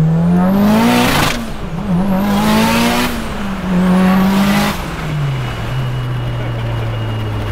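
Turbocharged 2.2-litre stroker 4G63 four-cylinder of a Mitsubishi Lancer Evolution 8 race car, heard from inside the stripped cabin, pulling hard. The revs climb, dip briefly about a second in, climb again with a loud rushing noise over each pull, then fall away about five seconds in to a steady lower drone as the car cruises.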